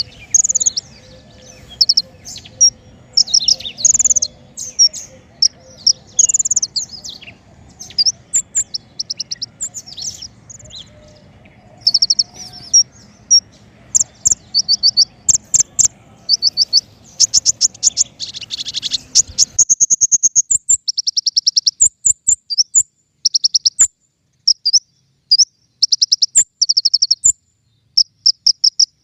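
King Konin songbird singing: short, rapid, high-pitched trills and chirps repeated in quick bursts throughout.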